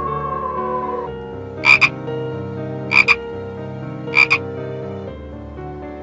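Three short animal calls, each a quick pair of pulses, a little over a second apart, heard over background music.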